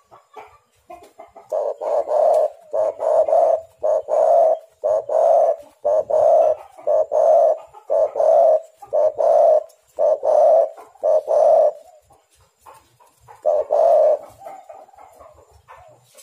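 Spotted dove (tekukur) cooing: a run of about ten loud coo notes, roughly one a second, then a short pause and one more coo near the end.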